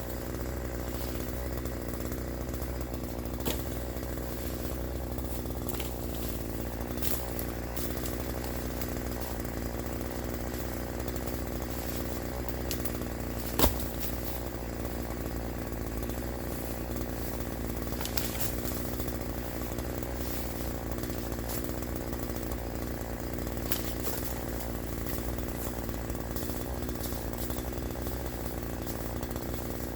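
Troy-Bilt TB4218 42cc two-stroke chainsaw with an 18-inch bar running at a steady speed. A single sharp crack, the loudest sound, about halfway through.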